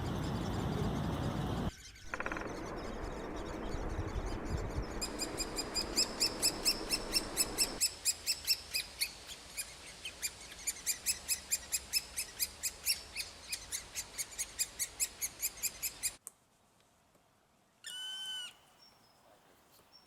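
A bird calling in a fast, even series of chirps, about three to four a second, over a noisy background. The calling cuts off abruptly near the end, and one short separate call follows.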